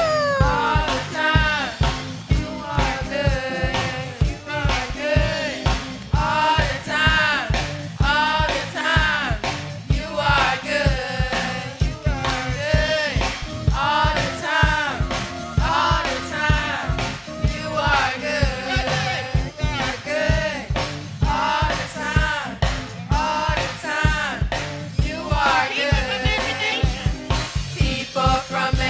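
Church praise singing with a live band: voices carrying a gospel worship song over drums and bass with a steady beat.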